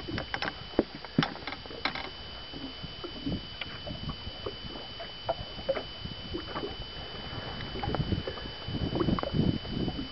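Irregular knocks, clicks and rattles of gear and fish being handled in a small fishing boat, getting busier and louder near the end.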